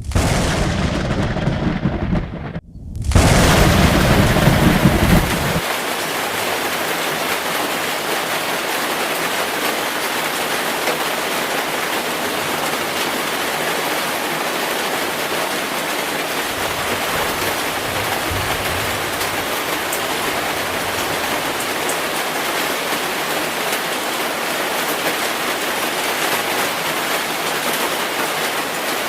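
Thunder rumbling loudly twice in the first few seconds, broken by a brief dropout, then heavy rain falling steadily with a faint distant roll of thunder midway.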